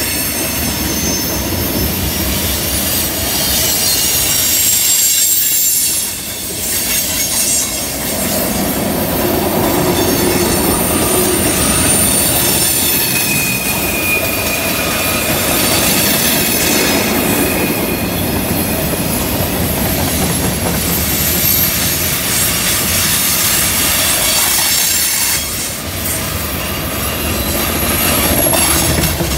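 Freight cars rolling past on a curve: a steady rumble of wheels on rails, with wheel flanges squealing in thin high tones that come and go.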